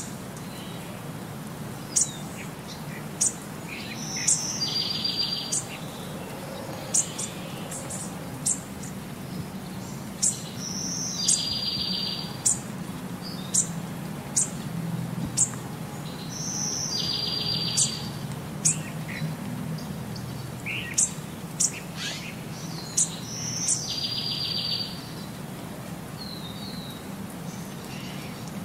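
Birdsong: short high chirps about once a second, with a buzzy trill every six seconds or so. It repeats evenly through the changing scenes, as if a looped background recording.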